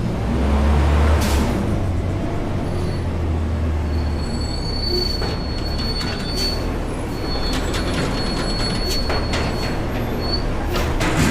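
A front-load garbage truck at work: its diesel engine rumbles, heavier for the first four seconds. A thin, high metallic squeal sets in about three seconds in and holds, with a short break, until near the end. Scattered metal knocks and clanks come through it.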